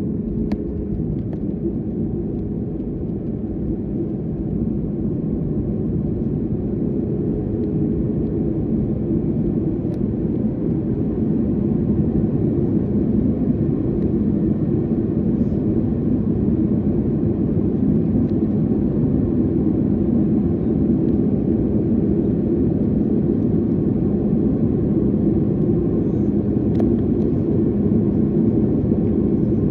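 Airliner cabin noise: the jet's engines and airflow make a steady rumble with a constant low hum, growing slightly louder in the first few seconds.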